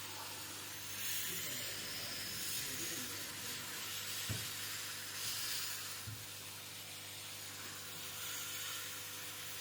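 Hot-air rework gun blowing steadily with a hiss, heating the circuit board to loosen a stuck component. Two light knocks about four and six seconds in.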